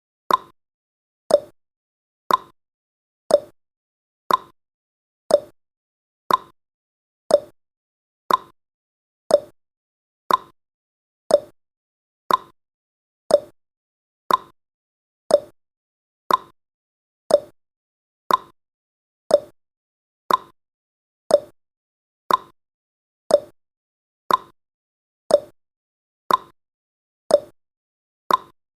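Countdown timer's ticking sound effect: one short click each second, alternating between a lower-pitched tick and a higher-pitched tock like a clock.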